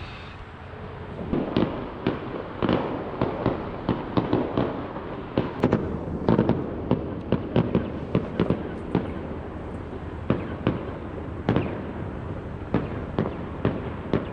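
Distant fireworks going off in quick, irregular succession: many sharp bangs and cracks, several a second at their densest, over a steady rumble of further fireworks.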